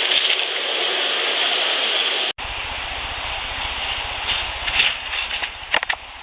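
A portable audio recorder being handled, heard through its own microphone: a loud rustling hiss that cuts off suddenly about two seconds in, then a fainter hiss over a low buzz with a few sharp clicks and knocks.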